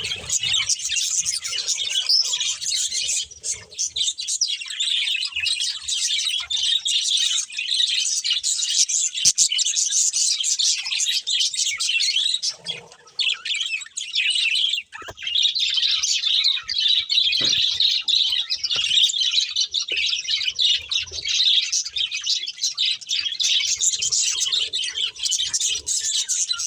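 Budgerigars chirping rapidly and continuously, with a brief lull about halfway through.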